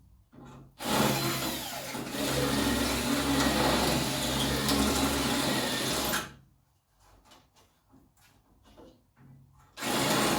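Power drill running under load for about five seconds, drilling out a pop rivet, then stopping.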